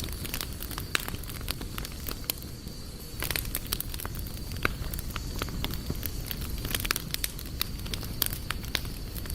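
Wood fire crackling, with frequent irregular sharp pops and snaps over a low rumble of burning. A faint steady high-pitched tone runs under it, dropping out briefly near the middle.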